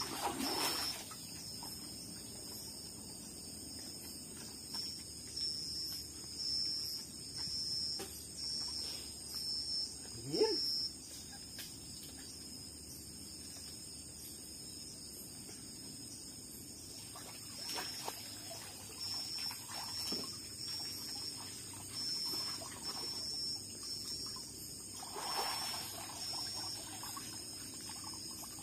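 Water splashing and pouring in irregular bursts as a person bathes in the river, over a steady high buzz of tropical forest insects. About ten seconds in there is one short rising sound.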